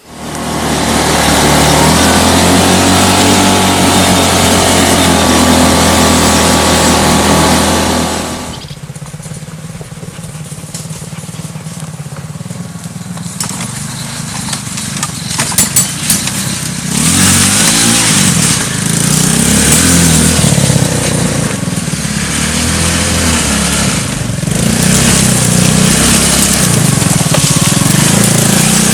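A homemade quad bike's engine starting up and running hard, dropping to a lower note about eight seconds in, then rising and falling again as the quad drives off.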